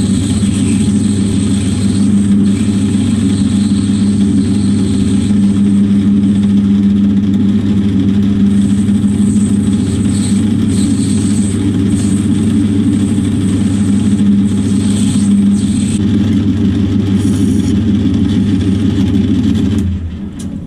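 Metal lathe running steadily with a steady hum and a high whine while a tool cuts a recess into a brass crank disc. The machine shuts off and winds down near the end.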